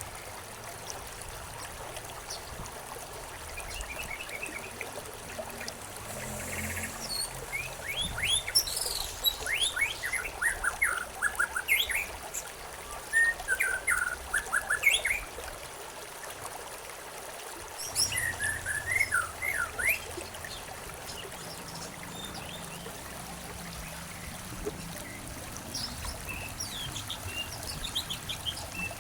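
Small songbirds chirping in quick repeated phrases over a steady trickle of flowing stream water; the chirping is densest in the middle, with a second flurry a little later and scattered calls near the end.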